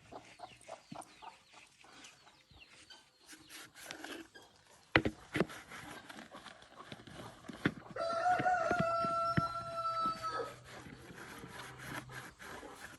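Rooster crowing once, a long held call starting about eight seconds in, among scattered clicks and pecking. A sharp knock about five seconds in.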